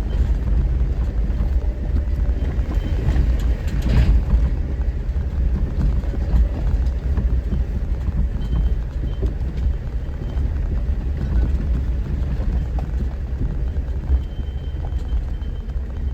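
Four-wheel-drive vehicle driving slowly over a rough dirt trail in four-wheel-drive high, heard from inside the cab: a steady low rumble with scattered knocks and rattles.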